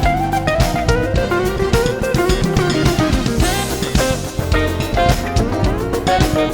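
A live smooth-jazz band plays an instrumental: guitar over bass, keyboard and drum kit. A lead line slides down in pitch and back up around the middle.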